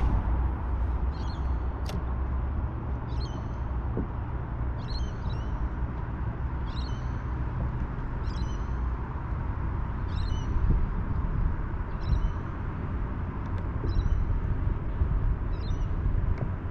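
A bird calling again and again, about ten short high calls roughly one every second and a half to two seconds, over a steady low rumble.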